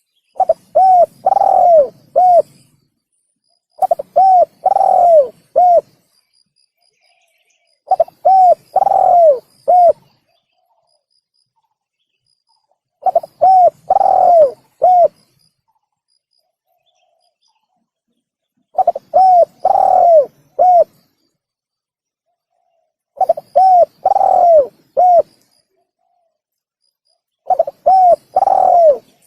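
Spotted dove (tekukur) cooing: a short phrase of about four coos, the third one longer and falling at its end, repeated seven times at roughly four- to five-second intervals with silent gaps between. It is a looped lure call for attracting doves.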